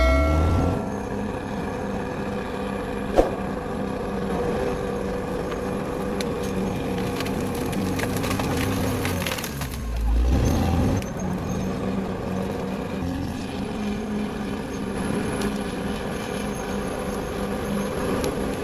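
Bulldozer running steadily at work, with a sharp click about three seconds in and a brief low surge around ten seconds in.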